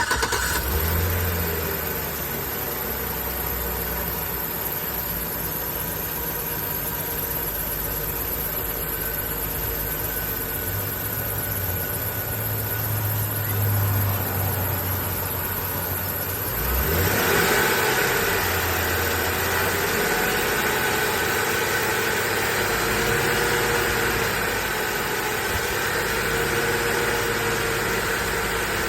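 A 2007 Chevrolet Silverado Classic's engine starting and then idling steadily. About 17 seconds in it gets louder, with a wavering pitch.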